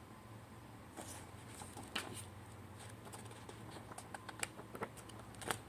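Faint handling sounds of a boxed tarot set and book: scattered light taps, clicks and rustles, with a sharper tap about two seconds in and a run of small clicks near the end.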